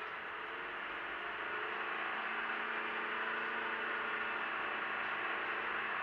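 Nissan Juke's 1.6-litre four-cylinder petrol engine pulling at steady revs through its CVT, with tyre and road noise. It gets gradually louder over the first two seconds, then holds one steady drone.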